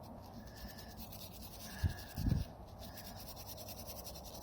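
A bristle brush scrubbing the metal terminals of a motorcycle fuse box to clear corrosion, giving a faint, quick, repeated scratching. A brief low sound comes about two seconds in.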